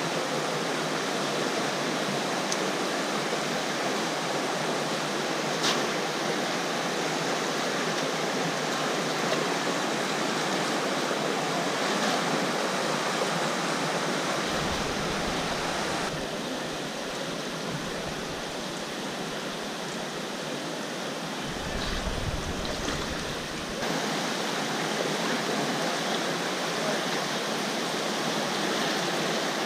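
Steady rushing water of a rainforest river or stream, a dense hiss with no pitch. Its sound shifts abruptly about halfway through and again later, with brief low rumbles in between.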